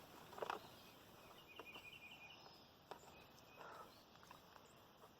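Near silence: quiet woodland ambience with a few faint clicks and a short, faint run of high chirps about a second and a half in.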